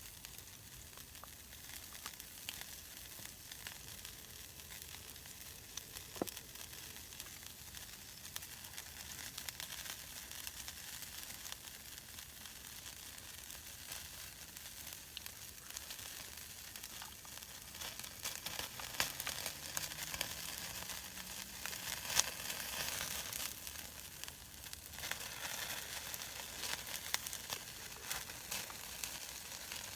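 Food sizzling as it fries in a pan, a steady hiss full of small pops and crackles that grows louder in the second half.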